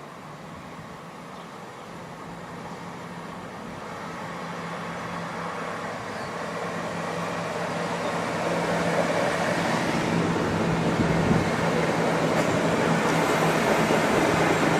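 A train approaching, its running noise growing steadily louder, with a steady low hum underneath.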